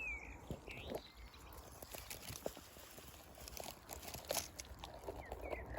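A few short bird chirps at the start and again near the end, over scattered crackles and snaps of twigs and undergrowth being pushed through.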